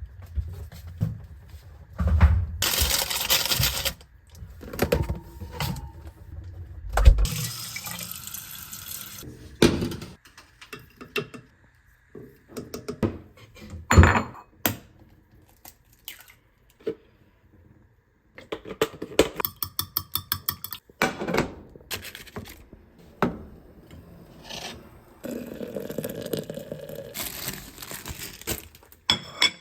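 Kitchen work at a sink: a tap running in short spells, between knocks and clatter of dishes, with a quick run of clicks about two-thirds of the way through.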